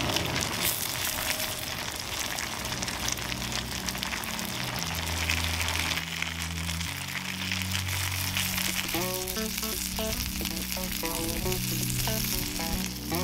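Gyoza sizzling in an uncovered frying pan, a steady hiss as the water cooks off and the thin batter skirt crisps. Background music comes in partway through, bass first and then a melody.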